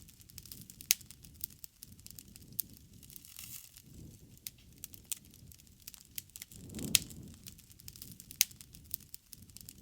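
Bonfire crackling, with sharp irregular pops and snaps over a soft low rush of burning. A louder swell with the biggest pop comes about seven seconds in, and another strong snap follows shortly after.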